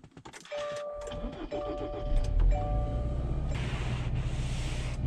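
A car's warning chime sounds three times, then the engine cranks and starts about two seconds in and settles into a steady idle. A steady hiss joins near the end.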